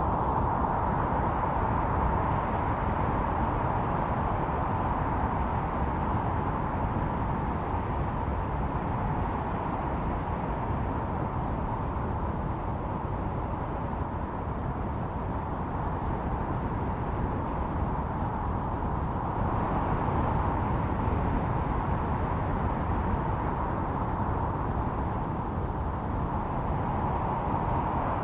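Blizzard wind blowing without a break, with a howl held near one pitch. The howl is strong at first, eases through the middle and swells again about two-thirds through.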